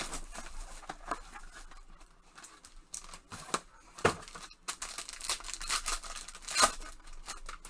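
Trading-card box and wrapper being torn open by hand: irregular tearing and crinkling of packaging, with sharper rips about four and about six and a half seconds in.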